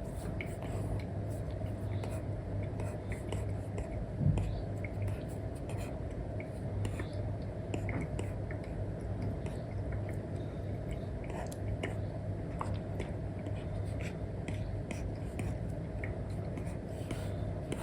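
Apple Pencil 2 with an Elecom nib drawing on an iPad screen fitted with a paper-like film: soft scratchy strokes and many light taps of the tip, over a steady low hum.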